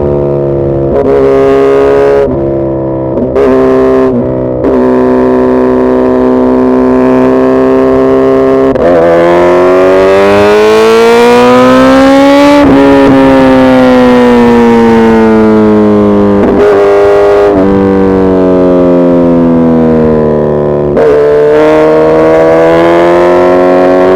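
Suzuki Hayabusa's inline-four engine running under way, loud, its note stepping abruptly several times early on as gears change. Midway the pitch climbs steadily for a few seconds, then falls away, with further abrupt steps and a rising pull near the end.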